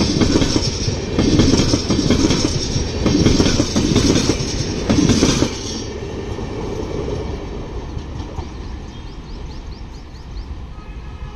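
LHB passenger coaches rolling past, wheels clattering over the rails in a repeating rhythm. The noise drops suddenly about five and a half seconds in as the last coach goes by, then fades as the train moves away.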